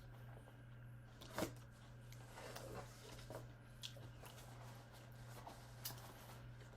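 Faint eating sounds, with chewing and the small clicks and rustles of prawns handled by hand, over a steady low hum.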